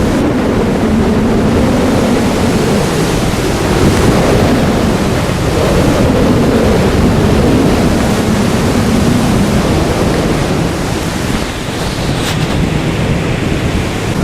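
Strong gusting wind buffeting the microphone, a loud, continuous rush that swells and eases with the gusts.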